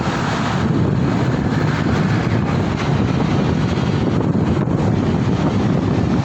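Steady wind rumbling on the microphone, mixed with road and traffic noise, while riding.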